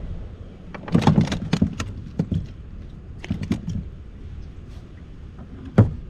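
Irregular knocks and clatter of gear being handled on a kayak: a cluster about a second in, another around three seconds in, and one sharp knock near the end, over a low rumble of wind on the microphone.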